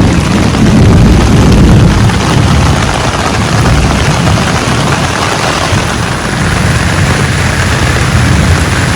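Heavy rain falling hard in a storm, a loud steady rush, with wind buffeting the microphone in a low rumble.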